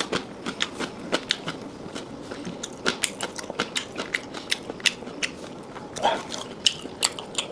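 Close-miked chewing of chicken liver: wet mouth clicks and smacks, several a second, with a short vocal sound about six seconds in.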